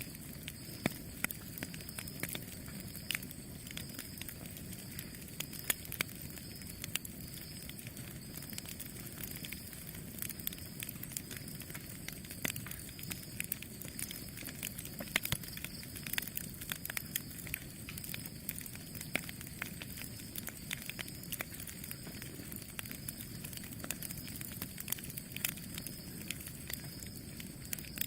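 Campfire burning: a steady low rush of flames with frequent, irregular sharp crackles and pops from the burning wood.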